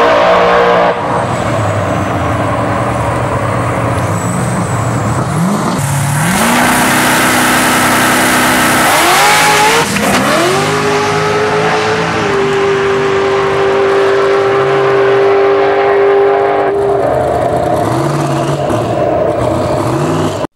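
Turbocharged drag race car at full throttle down the strip, its engine note climbing through gear changes about six, nine and ten seconds in, then holding one high steady note for several seconds.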